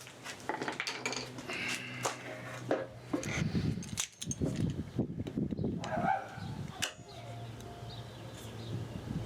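Sharp metal clicks and scrapes of hand tools working a broken screw out of a purpleheart blank, over a low steady hum.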